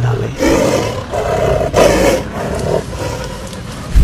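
An angry cat growling in four rough, loud stretches of about half a second each.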